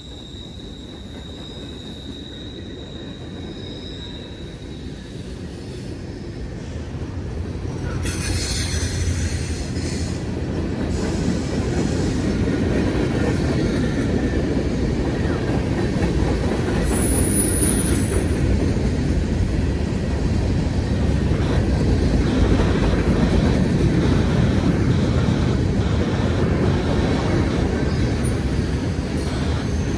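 Train rolling past: the rumble of wheels on rail grows louder over the first dozen seconds and then holds steady, with a thin high wheel squeal early on and a brief sharper squeal a little past halfway.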